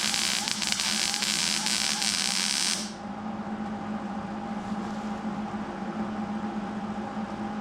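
A loud hiss, like a jet of air or spray, that cuts off suddenly about three seconds in, over a steady machine hum that continues throughout.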